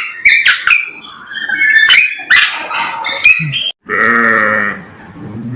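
Animal calls in quick succession: a run of short, sharp cries, then after a sudden break a single longer, drawn-out call.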